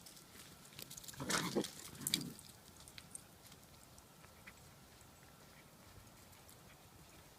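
Playing puppies making short growling vocal sounds, once about a second in and again just after two seconds, then only faint small ticks.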